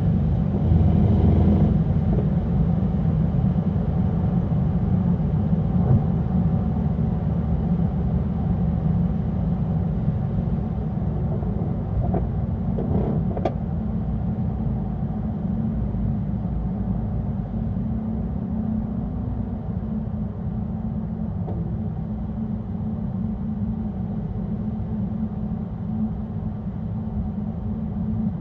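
Mercedes-AMG E63 S's twin-turbo V8 and road noise while driving, a steady low rumble that eases slightly in loudness.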